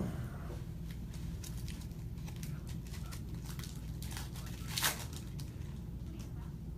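Plastic wrapping on a box or pack of trading cards being torn and crinkled open: scattered short crackles, with a louder one about five seconds in, over a steady low hum.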